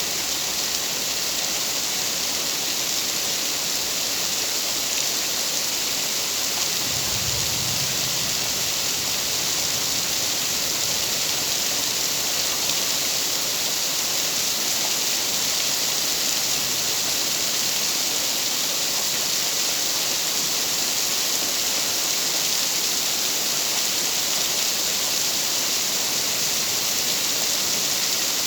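Steady rain, an even hiss with no letup, and a brief low rumble about seven seconds in.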